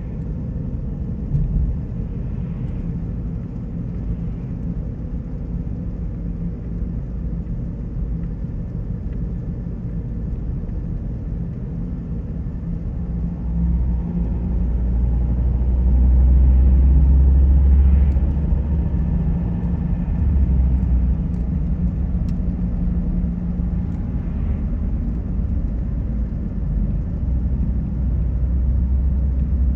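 Car on the move: a steady low road-and-engine rumble that swells louder for a couple of seconds midway, then settles.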